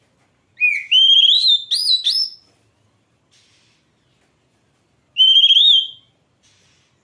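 Oriental magpie-robin (kacer) singing: a run of loud whistled notes sliding up and down for about two seconds, then one more short whistled phrase about five seconds in.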